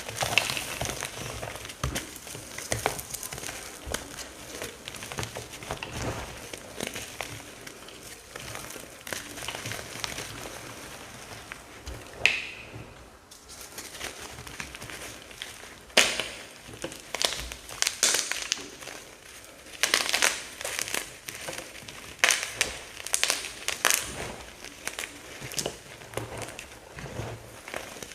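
Dried teal paste blocks and chunks being crushed, crumbling with a dry, continuous crunching and crackling. Louder individual crunches come in the second half.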